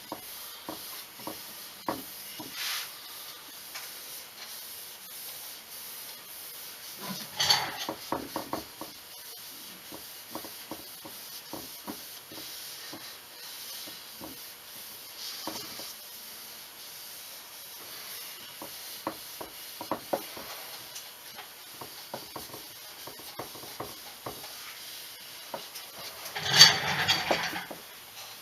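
Rag rubbing tung oil finish into a wooden gun stock, with small scattered clicks and knocks of handling. A louder rubbing, scraping burst a little after seven seconds in, and the loudest one, about a second long, near the end.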